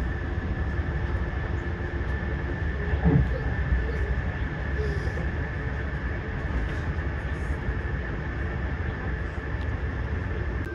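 A train running with a steady rumble and a constant high-pitched whine, with one brief louder knock about three seconds in.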